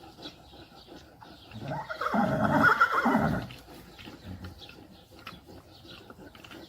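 An animal's loud whinny-like call, lasting about two seconds, starting about a second and a half in.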